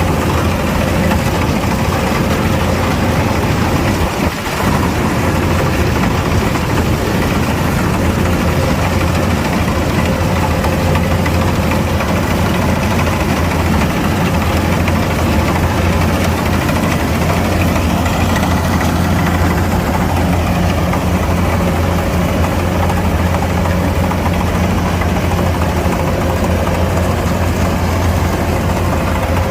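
Kubota DC-105X combine harvester's diesel engine running steadily under a constant low hum, with a steady whine above it. There is a brief dip in level about four seconds in.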